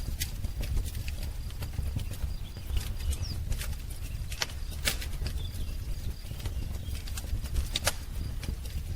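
Wood fire crackling, with irregular sharp pops and snaps over a low steady rumble. A faint bird chirp comes about three seconds in.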